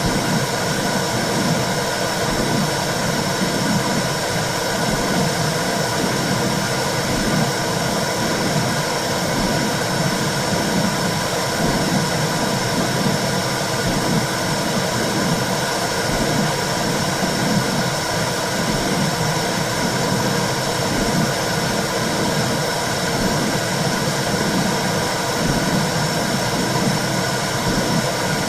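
Womb sound for soothing a baby: a steady whooshing noise with a low pulse repeating about once a second.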